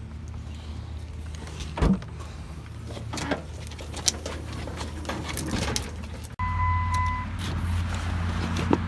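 Vehicle engine running with a steady low hum and scattered clunks and knocks. About six seconds in, the sound cuts abruptly to a louder engine hum with a steady beep lasting about a second.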